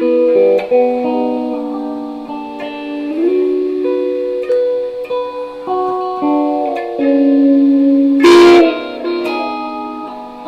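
Electric guitar played through a microphone: a slow line of picked notes and chords that ring on, with one loud, sharp strike about eight seconds in.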